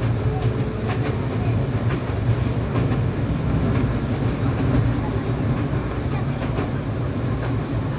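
Seibu 4000 series electric train running at speed, heard from inside the passenger car: a steady low rumble of wheels on rails, with a few faint, irregular clicks.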